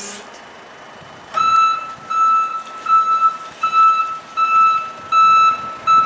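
Reversing alarm of a Mitsubishi FB16NT electric forklift: a series of about seven evenly spaced beeps on one steady pitch, starting about a second and a half in.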